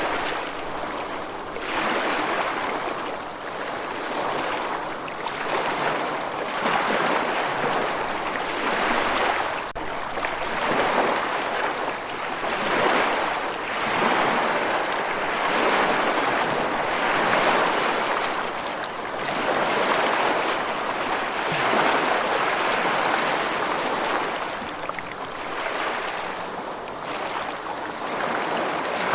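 Rushing water as a steady noise that swells and eases every two to three seconds.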